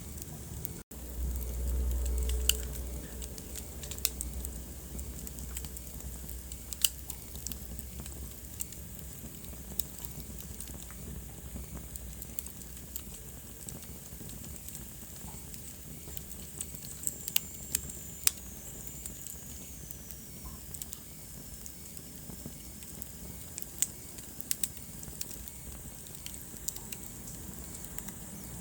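Wood fire crackling in a fireplace: irregular sharp pops and snaps over a soft steady hiss. A low rumble sounds for a few seconds near the start, and a faint high whistle slides down in pitch a little past halfway.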